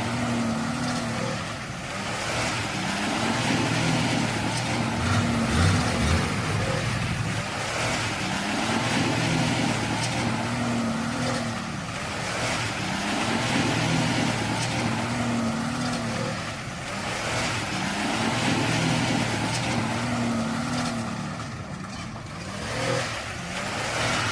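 An old 4x4 truck's engine revving up and dropping back again and again, about every two and a half seconds, as the truck works through mud.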